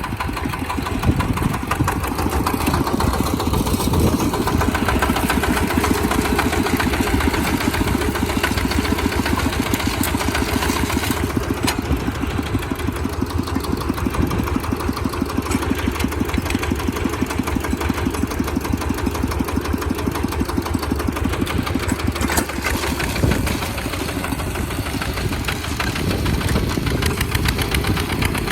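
Tractor engine running steadily with a rapid, even putter of firing strokes while plowing, easing off a little for a few seconds past the middle.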